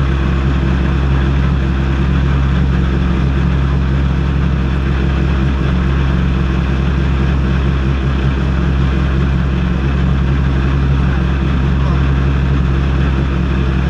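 Citroën rally car engine idling steadily, heard from inside the stripped, caged cabin.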